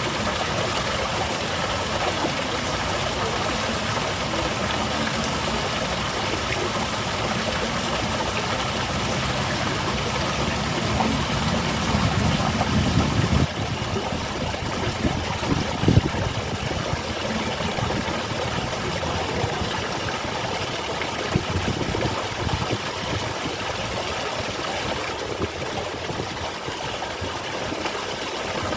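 Steady rushing of water falling in a small garden waterfall. A low rumble swells from about ten seconds in and cuts off suddenly a few seconds later, with a short knock soon after.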